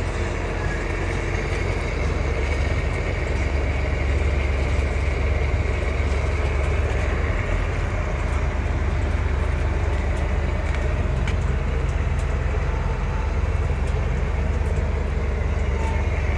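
Steady low vehicle rumble with no pauses or changes.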